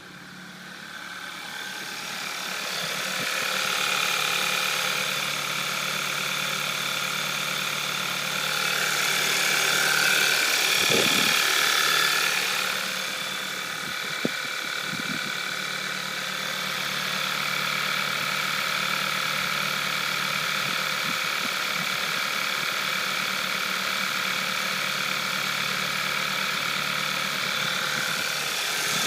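Volkswagen 2.0 TSI turbocharged four-cylinder petrol engine idling from a cold start, with a ticking rattle that the owner questions as normal or not. It grows louder over the first few seconds and swells again about ten seconds in.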